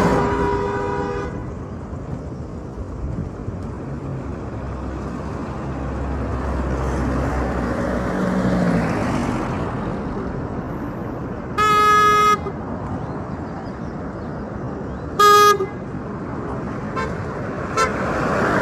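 Road traffic with car horns honking: a horn blast that stops about a second in, another lasting under a second about twelve seconds in, a short toot about fifteen seconds in, and faint toots near the end, over a steady rumble of passing vehicles.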